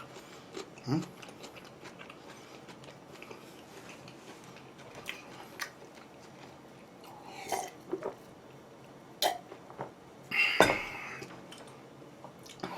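Close-up sounds of a person eating: quiet chewing with scattered wet clicks and mouth smacks, and a louder short crunch or smack about ten seconds in.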